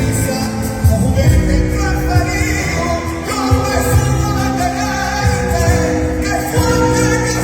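Live band music with singing: a voice holds long notes over a steady beat.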